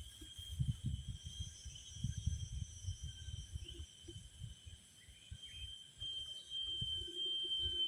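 Outdoor ambience: a steady high insect drone, with irregular low rumbling underneath.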